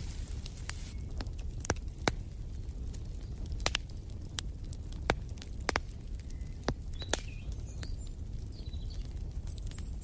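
Wood fire crackling in a fireplace: sharp, irregular pops and snaps over a low steady rumble, with a few faint short bird chirps in the second half.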